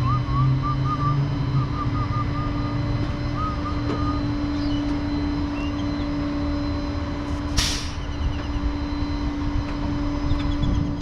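Tow truck's engine running steadily with a constant low hum. A short, sharp hiss sounds once, about seven and a half seconds in.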